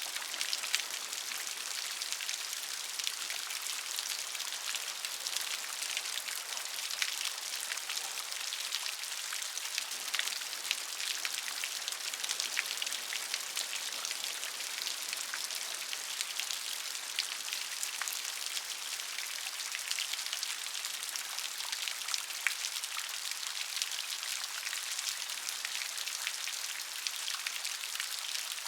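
Steady gentle rain: an even hiss of falling rain with many small drops pattering on a surface.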